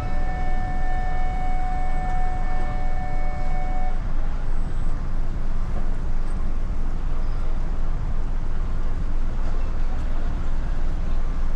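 A steady low engine rumble with wind-like noise. Over it a single held horn-like tone sounds and cuts off about four seconds in.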